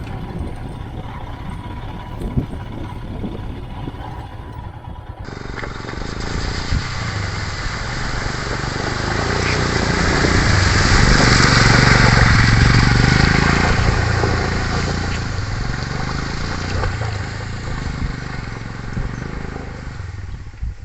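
Royal Enfield Himalayan's 411 cc single-cylinder engine running as the bike is ridden over a rough track, with scattered knocks and clatter. After a cut about five seconds in, a rushing noise swells to its loudest midway and eases off again over the engine's low hum.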